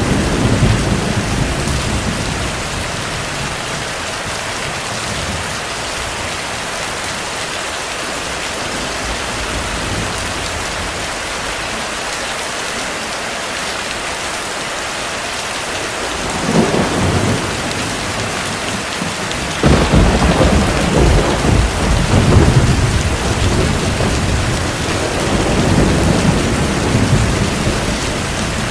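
Steady heavy rain with thunder. A rumble dies away at the start, a short clap comes about sixteen seconds in, and a few seconds later a long loud rumble breaks in suddenly and swells again near the end.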